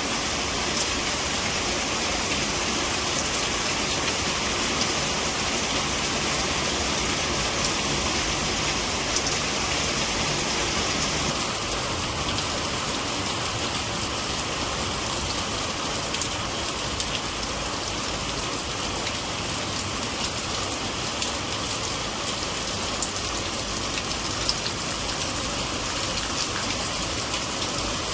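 Steady rain falling, a dense even hiss with scattered sharper drop ticks, slightly brighter for the first ten seconds or so.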